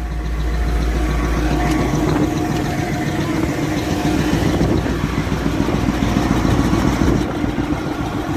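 Caterpillar 988F2 wheel loader's diesel engine running steadily at idle, just restarted after its number 5 injector was reseated with new seals; the speaker says the cylinder still holds a lot of leftover fuel.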